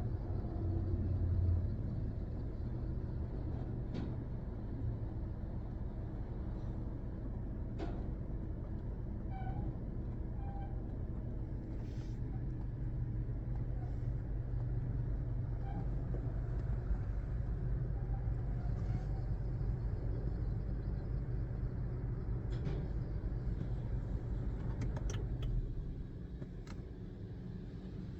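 Steady low rumble heard from inside a car standing in a Mark VII Aqua Jet GTO-300 touch-free car wash while the wash runs, with scattered clicks and knocks. The low rumble drops away about two seconds before the end.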